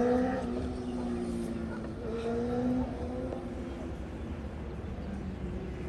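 A motor vehicle's engine running under acceleration, its pitch rising slowly, louder for the first three seconds and then fading away.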